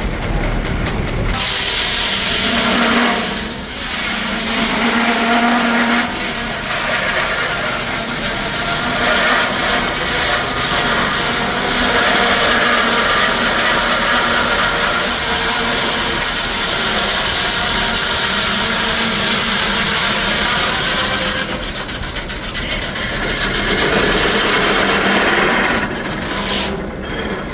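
Steam-driven Frick sawmill's circular head saw cutting through a log, a loud dense ripping that begins a little over a second in and stops shortly before the end.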